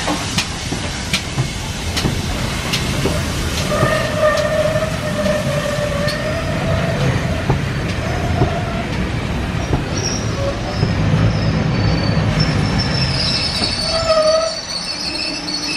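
Steam-hauled train of coaches rolling slowly past along the platform: a steady rumble of wheels on rail with regular knocks in the first few seconds. Wavering squeals from the wheels on the rails come in from about four seconds in and turn higher-pitched later on.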